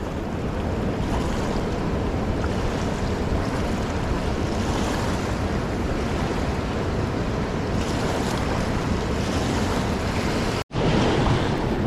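Steady rushing of a fast, swollen river, an even roar of turbulent water with some wind on the microphone. The sound cuts out for an instant near the end.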